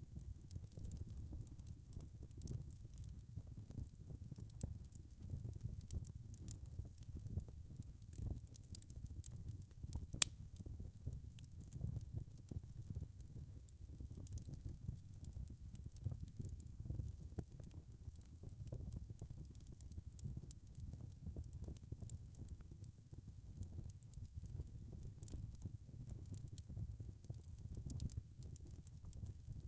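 Wood fire crackling over a low rumble, with frequent small pops and one louder snap about ten seconds in.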